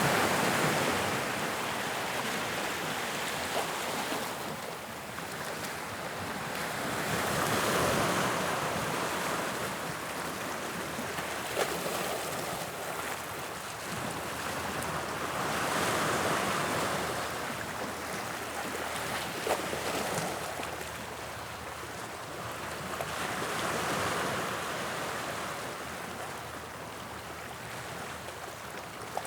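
Sea waves on the English Channel coast breaking and washing onto the shore, swelling and falling back about every eight seconds. A few faint brief clicks.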